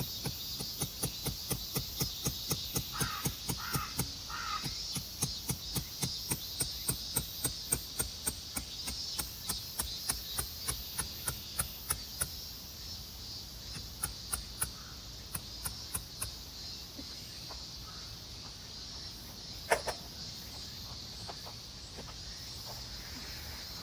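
A crow cawing three times about three seconds in, over a steady high insect drone. A run of quick, regular clicks or taps, about three a second, goes on for most of the first two-thirds, and a single sharp knock comes near the end.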